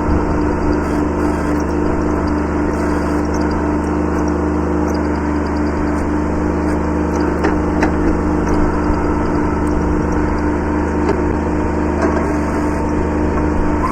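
Kubota B7100 subcompact tractor's diesel engine running at a steady speed, with a few short knocks about seven to eight seconds in.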